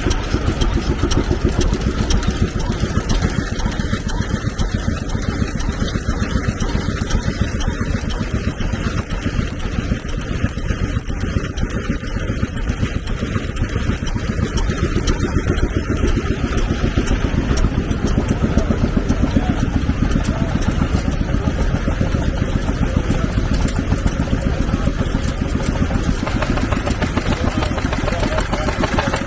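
Vintage stationary engine running steadily, with a fast, even beat of firing strokes that does not let up.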